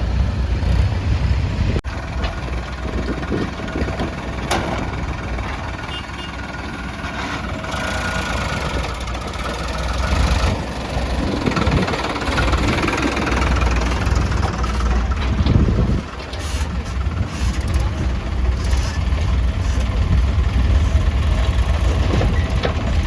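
Diesel engines of a backhoe loader and tractors running steadily at work loading mud, with a sharp clank about four and a half seconds in.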